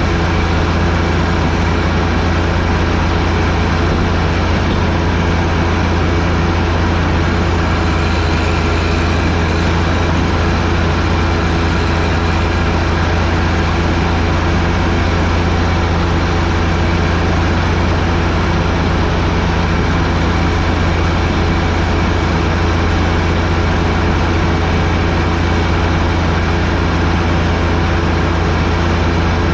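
John Deere 1025R compact tractor's three-cylinder diesel engine running steadily at a constant speed, with a strong low hum that never changes.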